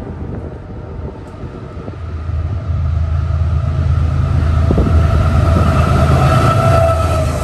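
A train rolling past on the rails with a heavy low rumble that grows louder about two seconds in, with a steady ringing tone from the wheels over it.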